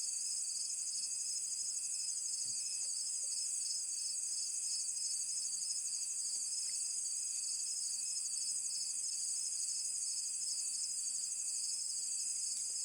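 Night chorus of crickets and other insects: a steady, high-pitched trilling with a fast, even pulse.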